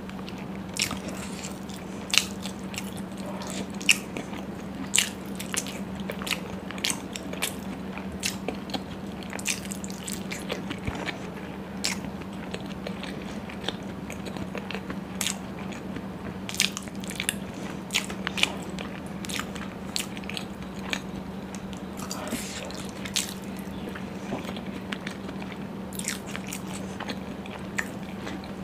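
Close-miked biting and chewing of deep-fried puri soaked in paneer butter masala gravy, with many sharp mouth clicks in quick succession. A steady low hum runs underneath.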